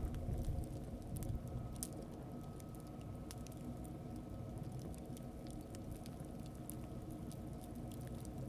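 Scattered small clicks and crackles, irregular, over a steady low rumble.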